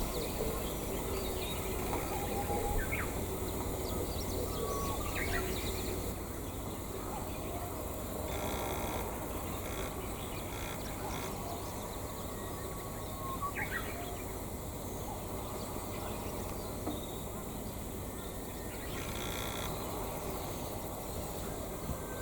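Scattered short bird calls over steady outdoor noise, with a low wind rumble on the microphone.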